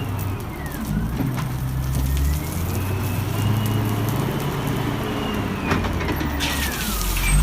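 A heavy machine's engine running, its pitch shifting in steps, with a thin whine gliding up and down above it. A hiss rises near the end.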